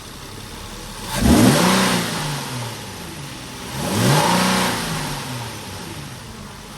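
Infiniti G35's V6 engine, breathing through newly fitted cold air intakes, revved twice from idle. Each blip rises and falls back to idle, with loud intake noise.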